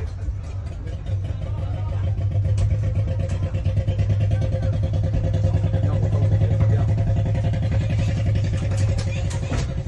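A boat's engine running. It gets louder over the first few seconds, as if speeding up, then runs steadily at an even low pitch with a fast regular pulse.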